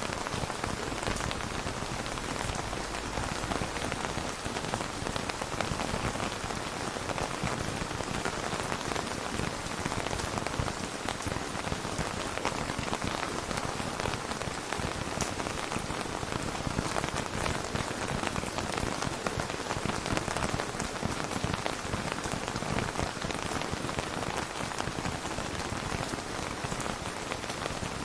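Steady rain falling, a dense, even patter of drops with no thunder.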